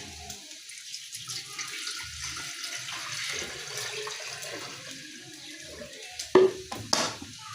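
Hot water from an electric jug poured steadily into a pot of rice for about five seconds, followed by two sharp knocks near the end.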